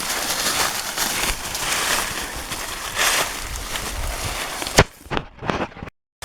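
Footsteps crunching and rustling through dry fallen leaves, a steady crackle of small clicks. There is a sharp knock about five seconds in, then the sound falls away and cuts off abruptly to silence.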